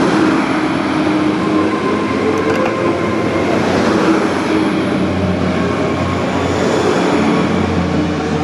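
Diesel passenger train running through at close range: a steady, loud sound of engine drone and wheels on the rails.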